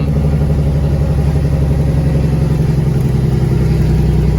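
Cat 3406E diesel in a Freightliner FLD120 with its Jake (compression) brake on, a loud, steady rapid chatter as the truck slows.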